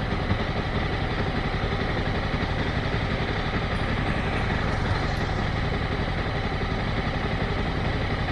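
Motorcycle engine running steadily at low revs, with an even, unchanging pulse.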